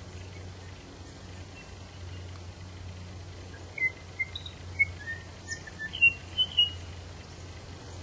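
An unidentified bird whistling a quick series of about eight short, clear notes over roughly three seconds, starting a little before halfway, with one higher note sliding downward in the middle of the run.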